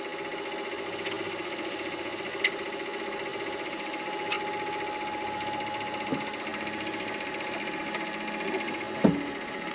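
Midi lathe running steadily with a constant motor hum, with a few light ticks and a louder knock about nine seconds in.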